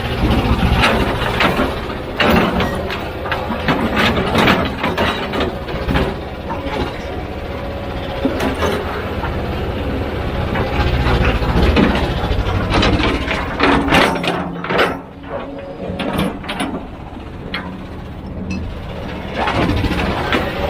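Heavy diesel machinery running under load, a steady low engine rumble with repeated clanks and knocks of metal and rock. The engine sound drops back for a few seconds about two-thirds through.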